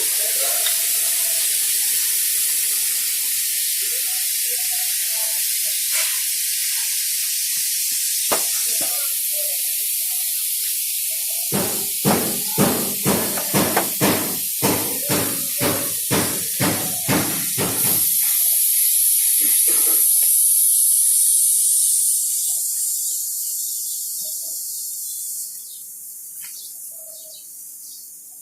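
A steady high hiss, with a run of about fourteen hammer knocks on metal in the middle, about two a second. The hiss fades away near the end.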